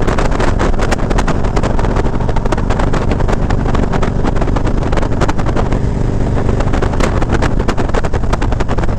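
Heavy wind buffeting on the microphone of a motorcycle at riding speed, crackling constantly, over the steady low drone of the motorcycle's engine.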